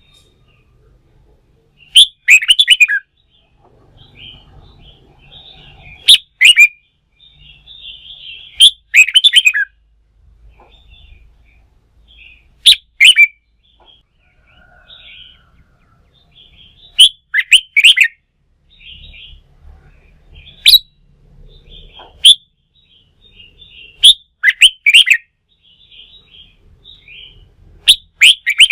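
Red-whiskered bulbul singing: loud, short, rippling song phrases repeated about every three to four seconds, with softer chattering calls in between.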